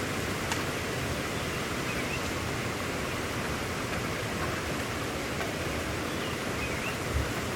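Steady, even hiss of heavy rain falling, with a few faint high chirps and a brief low thump near the end.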